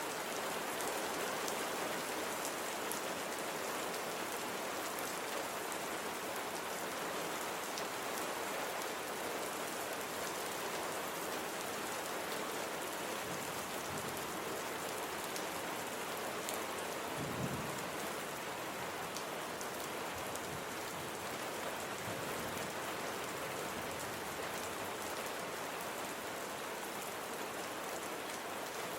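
Steady rain falling on a surface, with scattered drops ticking. There is one brief low thump a little past the middle.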